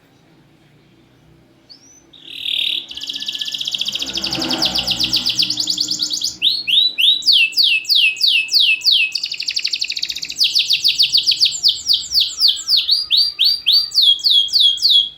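Domestic canary singing loudly. After about two seconds of quiet comes a short buzzy note, then a fast rattling trill alternating with runs of quick downward-sweeping whistles. The song cuts off at the very end.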